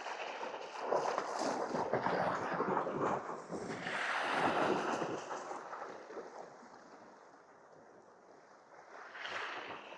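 Sea wash and wind at a rocky shore: a rush of noise that swells to a peak about four to five seconds in, dies down, and surges briefly again near the end.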